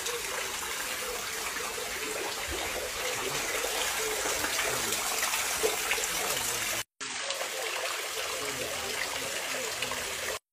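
Steady rush of running water, even and unbroken, with faint chirps or voices under it; it cuts out for an instant about seven seconds in.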